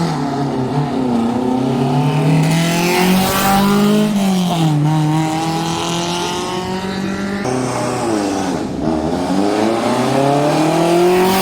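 Historic racing car engines revving hard as they accelerate past. The engine pitch climbs, falls back about four seconds in, climbs again, and dips and rises once more near the end.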